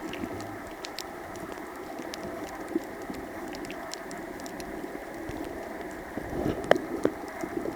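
Underwater reef ambience: a steady rushing hiss with scattered crackling clicks. It swells slightly near the end, with a couple of sharper clicks.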